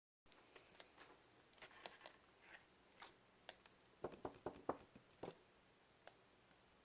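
Near silence with faint scattered clicks and light rustles, most of them bunched together about four to five seconds in.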